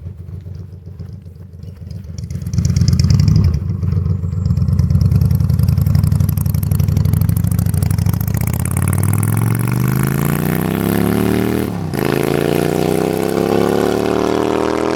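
A vehicle engine rumbles low and loudens, then accelerates. Its pitch climbs steadily, drops briefly about twelve seconds in at a gear change, and climbs again.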